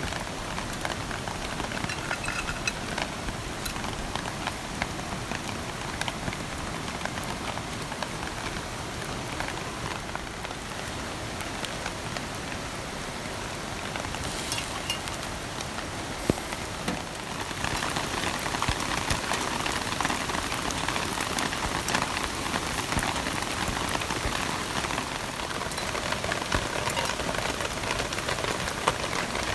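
Heavy rain falling, a dense patter of drops that grows louder and heavier a little over halfway through.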